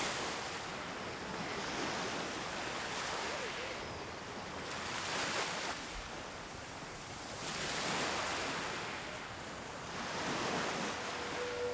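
Sea waves breaking on a beach, the surf swelling and easing every two to three seconds.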